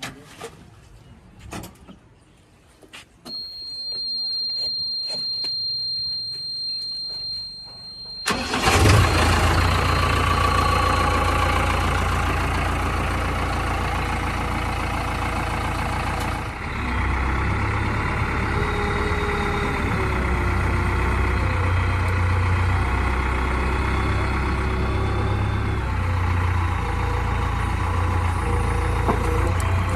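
A steady high-pitched tone sounds for about five seconds. Then a heavy diesel engine starts abruptly about eight seconds in and keeps running, its note changing about halfway through.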